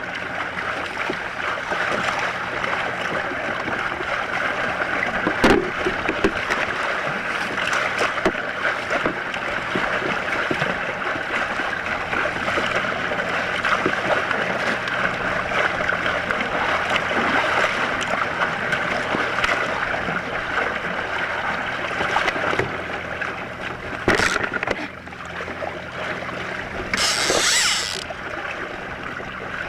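Choppy water sloshing against a fishing kayak's hull, with a couple of sharp knocks and a brief splash near the end.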